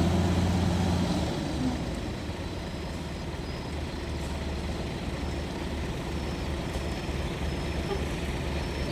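Heavy diesel engine running steadily with a low hum, louder for about the first second and then settling lower.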